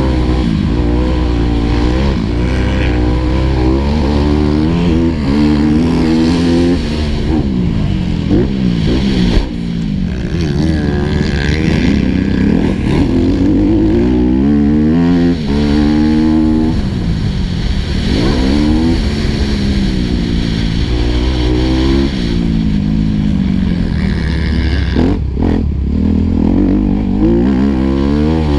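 Four-stroke single-cylinder motocross bike engine heard on board, revving hard and dropping back over and over as the rider accelerates, shifts and brakes around the track. There is one sharp knock about nine seconds in.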